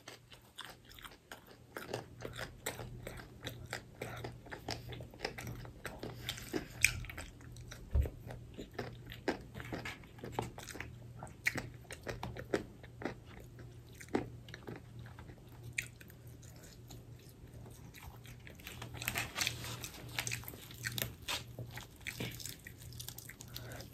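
Close-up eating sounds of people biting into and chewing crispy fried chicken: irregular crunches and wet mouth clicks, busiest a few seconds before the end, over a faint steady low hum.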